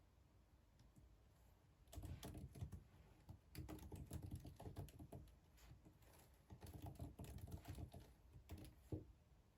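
Faint typing on a computer keyboard: quiet for about two seconds, then rapid runs of key clicks with short pauses, ending in a sharper keystroke near the end.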